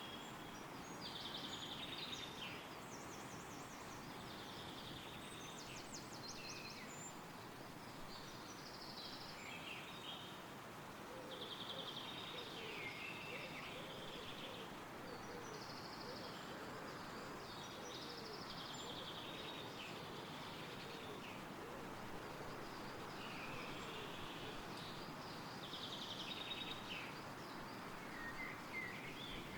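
Wind rustling steadily through forest trees, with songbirds singing short trilled phrases every couple of seconds above it.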